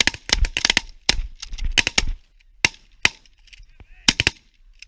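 Several hunters' shotguns firing at geese: a rapid volley of overlapping blasts in the first second or so, thinning to scattered single shots. Geese honk faintly between the shots.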